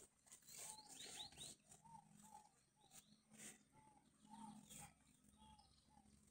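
Faint bird calls: a series of short, arched notes repeated two or three times a second, with a few quick higher chirps about a second in.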